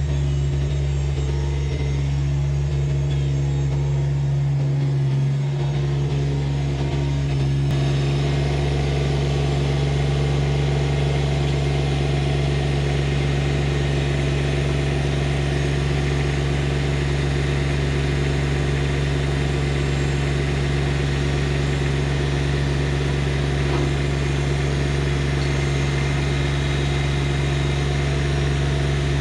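Compact tractor's diesel engine running steadily; about seven or eight seconds in its sound grows fuller and stays so.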